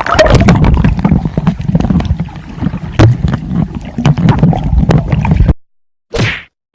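Loud, rumbling water splashing and bubbling with many sharp clicks, as a swimmer dives in close to the microphone. It cuts off suddenly about five and a half seconds in, followed by a short whoosh.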